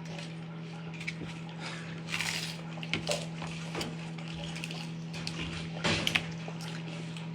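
Dishes and cutlery clinking and knocking in scattered, irregular strokes, the loudest clatter about six seconds in, over a steady low hum.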